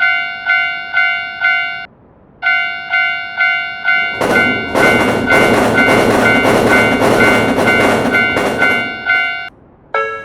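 Japanese railroad crossing alarm bell ringing its repeated strike about twice a second, with a short pause about two seconds in. From about four to nine seconds a passing train rumbles and clatters over the bell, which stops soon after; right at the end a different, lower-pitched crossing bell starts.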